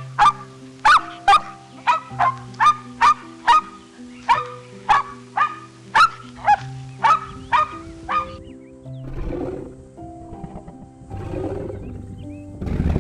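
Animal calls over background music: a run of short sharp calls, about two a second and each falling in pitch, that stops about eight seconds in. Low, rough growling calls follow.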